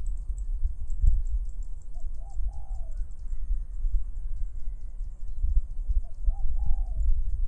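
Wind rumbling on the microphone in open rice fields, with a high, fast-pulsing chirr running throughout. A bird gives the same short low call twice, about two and six seconds in.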